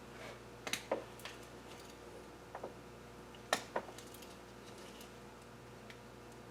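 A few light, scattered clicks and taps of a sealant tube and small parts being handled while gray RTV is worked onto an engine block, the sharpest pair about three and a half seconds in, over a faint steady hum.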